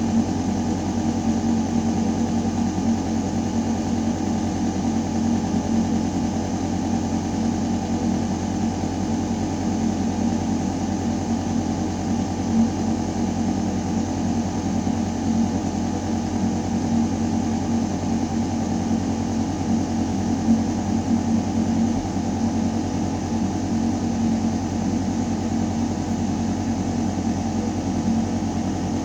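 Building ventilation system running: a steady low mechanical hum with air rushing through the metal ductwork.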